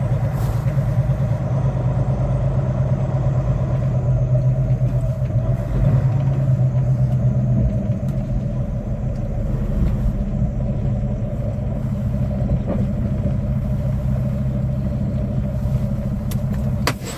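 Semi-truck's diesel engine running with a steady low drone.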